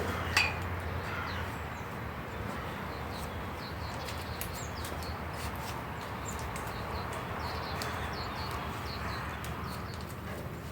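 Birds chirping in short calls over a steady low background noise, with scattered sharp clicks; one louder click comes about half a second in.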